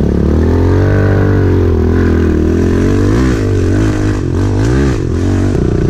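Pit bike engine running at steady throttle, with two quick revs that rise and fall, a little past three seconds in and again near five seconds.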